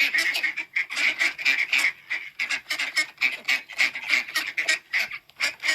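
A flock of ducks quacking continuously, many rapid calls overlapping with no break.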